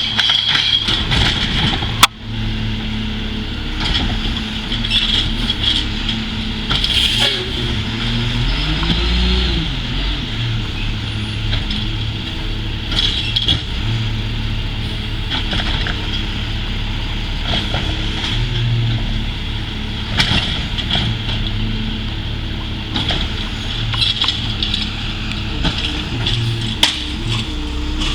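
Large waste truck's engine running steadily as the truck maneuvers. About eight seconds in it revs up and drops back. There is a single sharp click about two seconds in.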